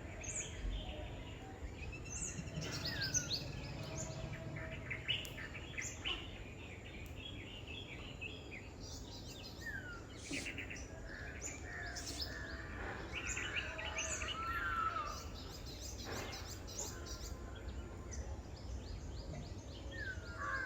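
Songbirds chirping and calling, many short repeated chirps and brief whistled glides, over a steady low background rumble.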